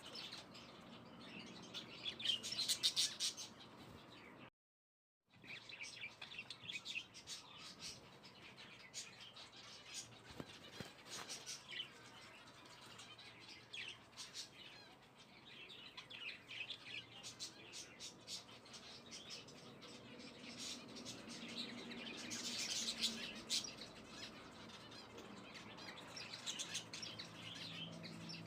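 Small birds chirping again and again, with a brief dropout to total silence about five seconds in.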